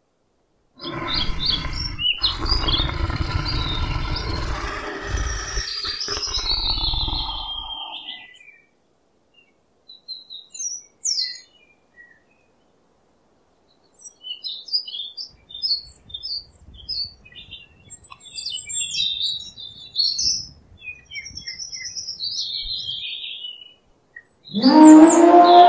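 Small birds chirping and twittering in short high calls. For the first several seconds a loud, rough, low animal sound runs under them, and about a second before the end a loud, low, drawn-out animal call with a clear pitch begins.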